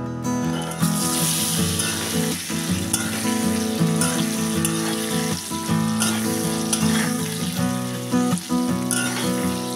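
Pointed gourd pieces sizzling in hot oil in a kadai, the sizzle starting just under a second in as they go into the pan, with occasional scrapes of a metal spatula turning them.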